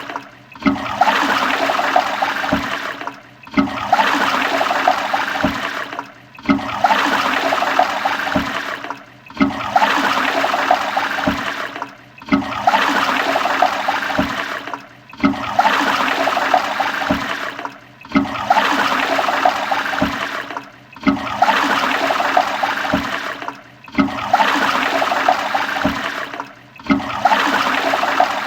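Toilet flushing, a rush of water repeated over and over, each flush lasting under three seconds and broken off by a short gap before the next begins, about every three seconds.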